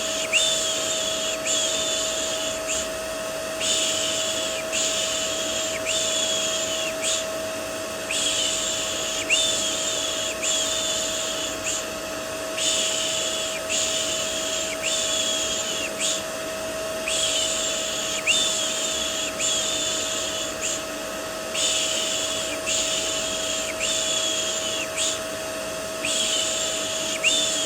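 Rhythmic 'shh' shushing for soothing a baby, in runs of three to five hushes with short pauses between runs. Under it runs a steady vacuum cleaner motor hum with a constant whine.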